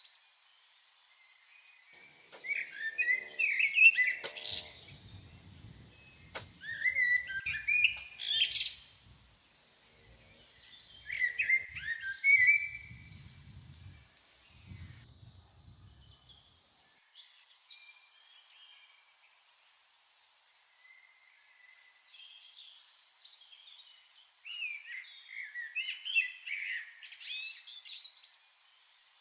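Songbirds chirping and singing in several bouts of quick, high twittering phrases, with quieter calls in between.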